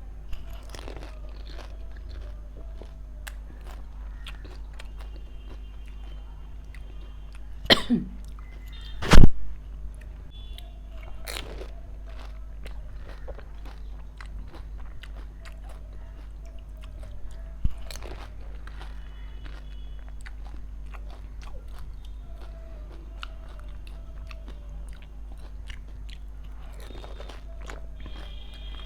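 Close-up eating of golgappa (pani puri): crisp fried shells filled with potato and spicy water bitten and chewed, with scattered crunches. There are two much louder sharp crunches about eight and nine seconds in, over a steady low hum.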